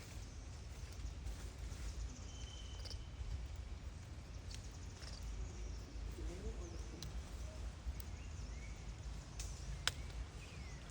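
Outdoor ambience: a steady low rumble with faint scattered animal chirps and calls, and one sharp click about ten seconds in.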